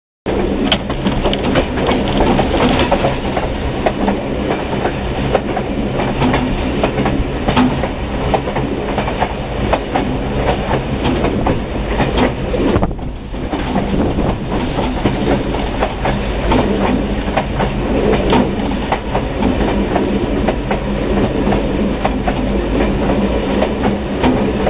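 Passenger train rolling along the rails, heard from aboard a coach: a steady rumble with a low hum and repeated wheel clicks over the rail joints.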